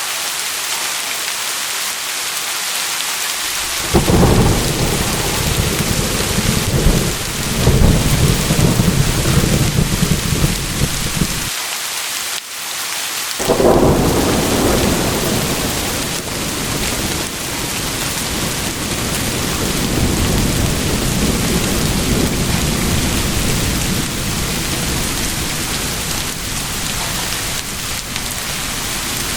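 Steady heavy rain with rolling thunder. About four seconds in a deep rumble sets in and rolls for several seconds. It dies away briefly around twelve seconds, then a second peal breaks in sharply and keeps rumbling under the rain.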